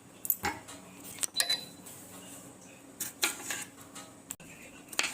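Kitchen utensils clinking and scraping against dishes and pans, a handful of separate sharp clinks with one ringing briefly about a second and a half in.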